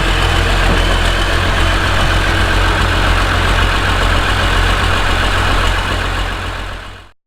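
A large tractor engine running loudly and steadily with a heavy low rumble, cutting off near the end.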